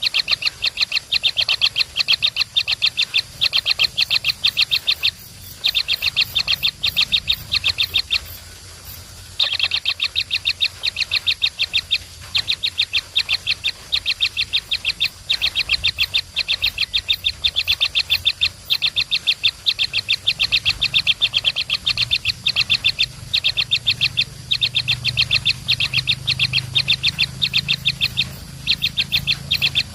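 Baby birds chirping in a fast, unbroken stream of short high-pitched calls, many a second, pausing briefly twice: the begging calls of hungry chicks at feeding time.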